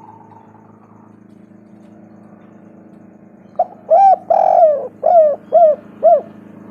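Spotted dove cooing: a phrase of six loud arched coos starting about three and a half seconds in, the third drawn out longer than the rest, over a steady low hum.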